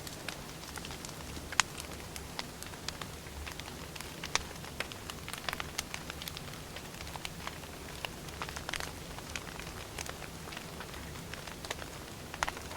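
Wood fire burning: irregular sharp pops and snaps of firewood over a low steady hiss, with a loud snap about a second and a half in and a quick run of snaps near the end.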